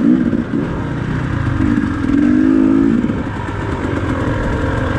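Dirt bike engine running while being ridden on a loose trail, its pitch held steady briefly at the start and again about two seconds in.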